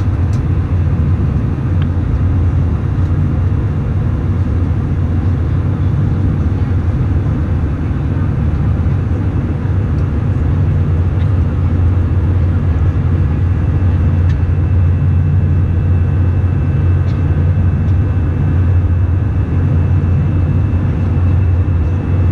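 Airbus A319 cabin noise in flight: the steady, deep drone of the jet engines and airflow, with a few faint high tones above it.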